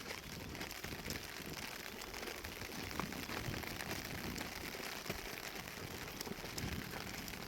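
Rain shower falling: a steady hiss dotted with many small drop ticks.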